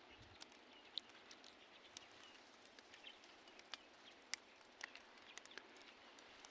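Near silence: faint outdoor background hiss, broken by scattered small ticks and clicks.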